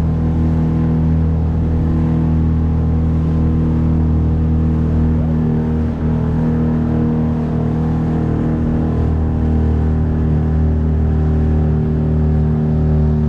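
A small boat's 9.8 hp outboard motor running at a steady speed, its pitch holding even.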